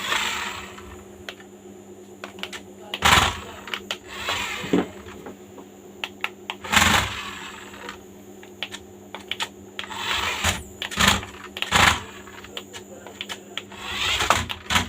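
Irregular plastic clicks and knocks with short rustling bursts, over a steady low hum: handling noise.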